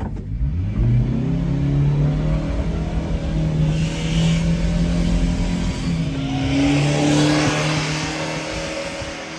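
A 1995 Subaru Sambar kei truck's small four-cylinder engine pulls away, revs climbing over the first second, then runs at a fairly steady speed, with a change in pitch about six seconds in. A hiss swells twice over it.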